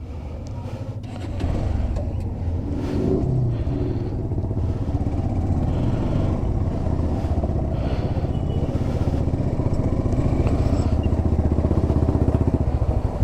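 Motorcycle engine running as the bike is ridden, picking up and getting louder about a second in, then holding steady.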